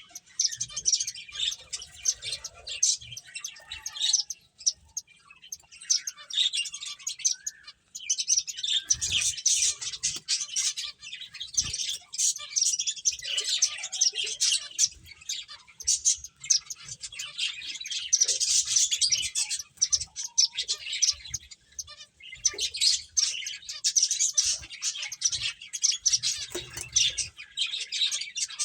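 Several pet finches chirping: rapid, high-pitched calls that overlap almost without pause, with a couple of brief lulls.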